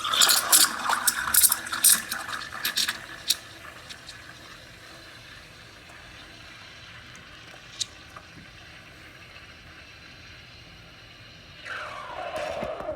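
Espresso machine steam wand hissing into a pitcher of milk, crackling and sputtering for the first few seconds while air is drawn in, then settling to a steadier hiss as the milk is heated. A louder squeal that falls in pitch comes in near the end.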